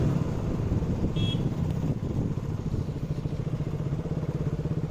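Motorcycle engine running steadily at low revs while riding, its firing pulses coming through as a fast, even beat.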